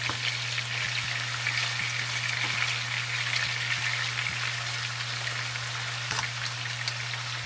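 Chopped boneless chicken thighs frying in olive oil in a pan: a steady sizzle with scattered crackles and pops.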